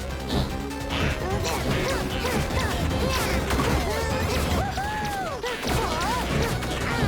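Cartoon soundtrack: background music under a run of crashing and whacking sound effects, with swooping, squeaky pitch glides rising and falling in the middle.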